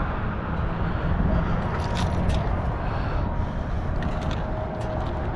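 A hand tool clicking against metal plumbing fittings, a few sharp clicks about two seconds in and again near the end, over a steady low rumble.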